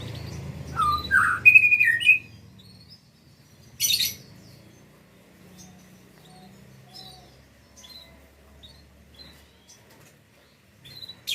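A small bird calling: a few loud, short chirps in the first two seconds, then softer scattered chirps. A brief noisy rustle comes about four seconds in.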